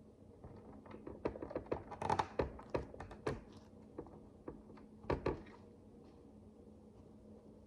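Tiny plastic micro bricks being handled and clicked together: a run of light clicks and taps, busiest in the middle, with a last pair of clicks about five seconds in, over a faint steady hum.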